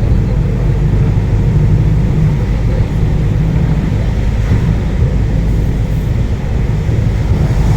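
Vehicle engine running steadily: a loud, low, even drone with hiss over it.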